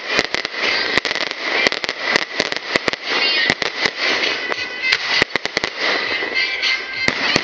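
Aerial fireworks display: shells bursting overhead in dozens of sharp bangs in quick succession, over a steady crackling of glittering stars.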